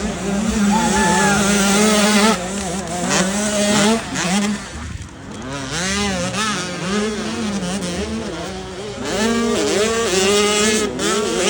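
Several motocross bikes' engines revving hard, their pitch rising and falling over and over as the riders work the throttle. The sound dips briefly about five seconds in.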